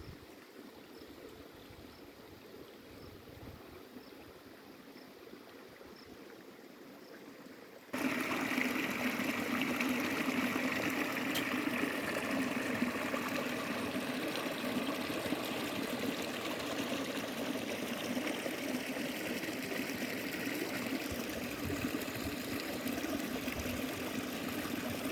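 Steadily running, trickling water, cutting in abruptly about eight seconds in; before that only a faint hush with soft, evenly spaced high ticks.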